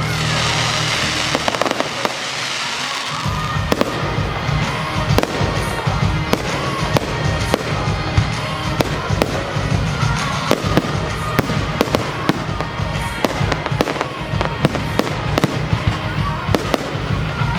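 Fireworks display: a rapid, continuing run of bangs and crackles from aerial fireworks, with music playing throughout.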